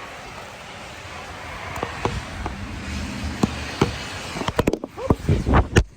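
Snow shovel scraping over a snowy driveway, growing louder, with a run of sharp scrapes and knocks near the end.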